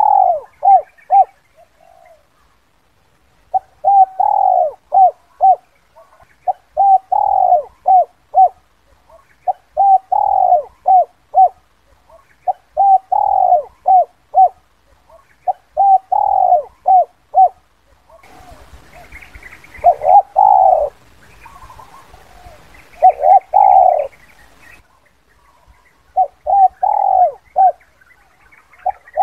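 Spotted dove cooing, one phrase of several short coos around a longer drawn-out coo, repeated about every three seconds. A faint hiss sits behind the calls for a stretch in the second half.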